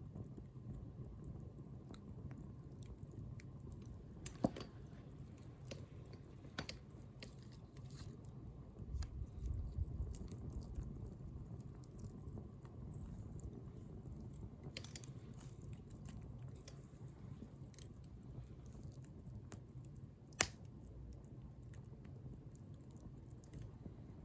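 Wood bonfire burning: a low steady rumble with scattered small crackles, and two sharp pops, one about four seconds in and one late on.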